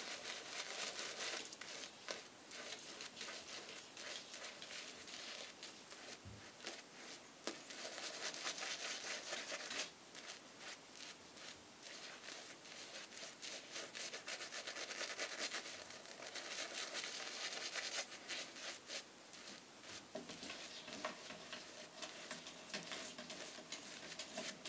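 Shaving brush being swirled and worked against soap in a resin shaving mug: a steady wet crackling and rubbing, a little louder for a few seconds around a third and again about two thirds of the way through.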